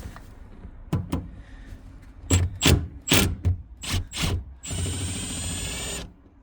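Tools at work on a car's rear-seat bolt. A string of sharp clicks and knocks comes first, then a steady whir for just over a second that stops near the end, as the 10 mm bolt holding the seat is undone.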